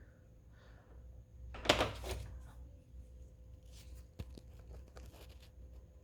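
Handling noise: a short rustling scrape about one and a half seconds in, followed by a few light clicks.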